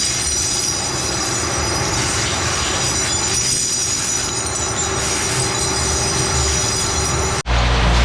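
Workshop machinery running steadily with a high-pitched metallic whine. Near the end it cuts off abruptly and gives way to a louder, deeper machine hum.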